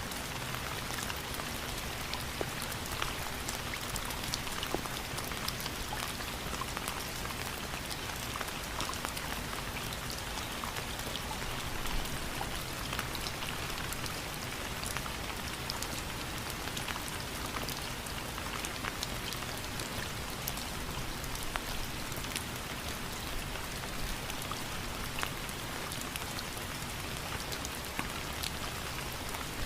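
Steady rain, with many individual drops ticking on a surface over an even hiss.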